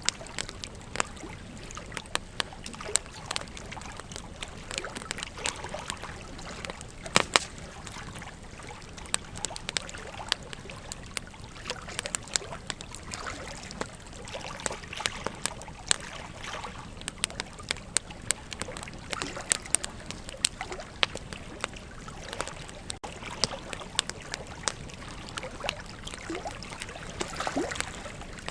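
Wood campfire crackling, with frequent irregular sharp pops, the loudest about seven seconds in, over the steady rush of flowing river water.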